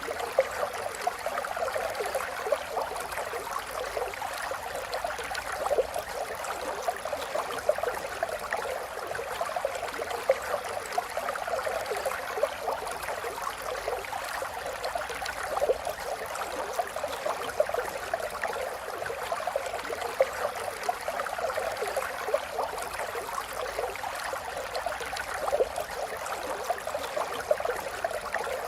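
Running water: a small stream babbling steadily, a dense patter of many small splashes with little low rumble.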